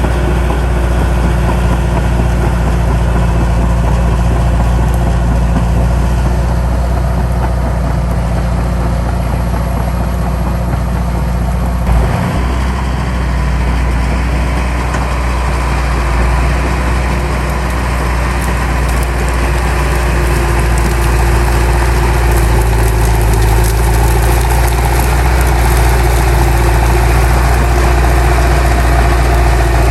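Heavy diesel engine of earthmoving machinery running steadily, with a brief knock about twelve seconds in and more clatter later on.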